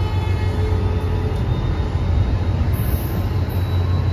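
NJ Transit commuter train's passenger coaches rolling past the platform, a steady low rumble of wheels on the rails.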